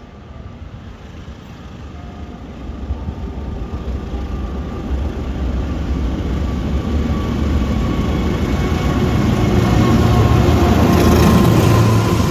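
A train approaching along the track, its low rumble building steadily louder for about ten seconds and peaking near the end.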